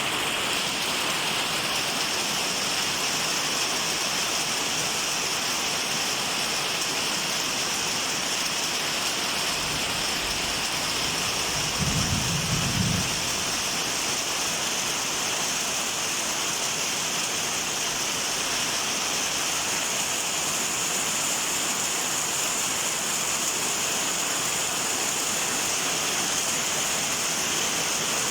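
Steady rain falling, with a brief low rumble of thunder about twelve seconds in.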